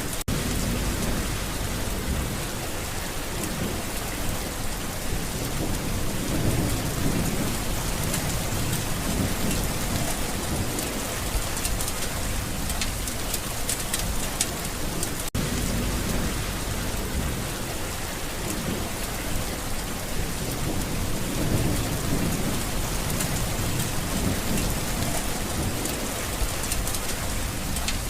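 Steady rain pouring onto a surface, with low thunder rolling in and out every few seconds. There is a momentary dropout about halfway through.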